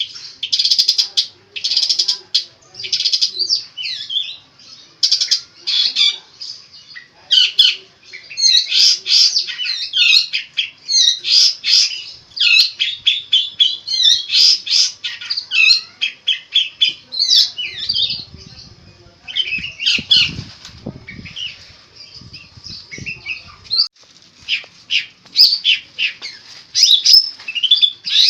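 Long-tailed shrike (cendet) singing a fast, continuous chattering song of varied notes, full of mimicked calls of other birds. A stretch of low muffled thumps runs about two-thirds of the way through.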